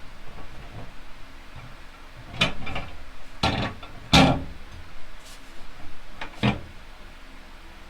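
A handful of short knocks and clatters, about six over four seconds, with the loudest about four seconds in.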